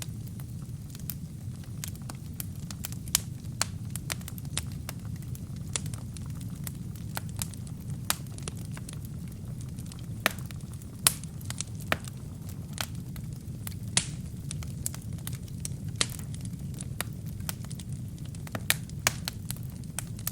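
Wood fire burning in a fireplace: a steady low rush of flames with irregular crackles and sharp pops from the burning wood and kindling, a few pops louder than the rest.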